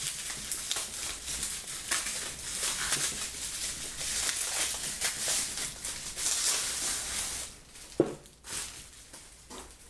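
Unboxing packaging rustling and crinkling with many small crackles as items are handled, dying down after about seven and a half seconds, with a single sharp knock about eight seconds in.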